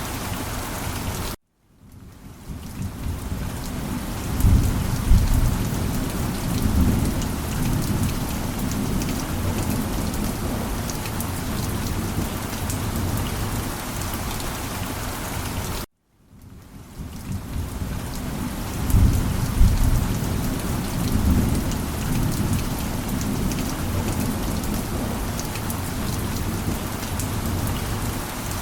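Steady heavy rain with rolling thunder, the rumble swelling twice. The sound cuts out abruptly twice, about a second and a half in and again near sixteen seconds, then fades back in each time.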